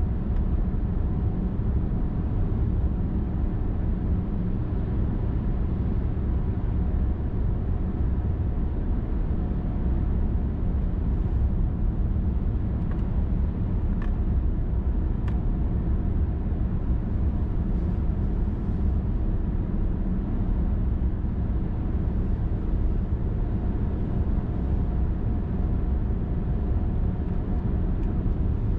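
A car driving steadily along a highway: a constant low rumble of tyres and engine at cruising speed, with a faint steady hum above it.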